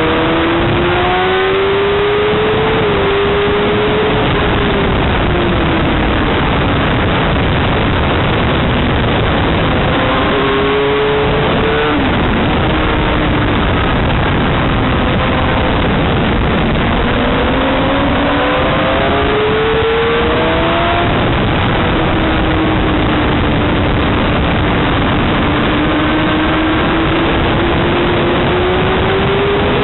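Motorcycle engine revving up through the gears, its pitch climbing and dropping at each shift, then easing off and building again, under a loud steady rushing noise.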